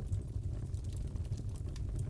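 Fireplace crackling: a steady low rumble of burning wood with scattered sharp pops and snaps.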